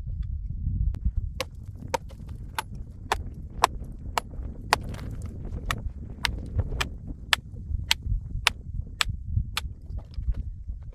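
A steady run of sharp knocks, about two a second, like a tool striking something hard, over a continuous low rumble. The knocks begin a little over a second in and stop about a second before the end.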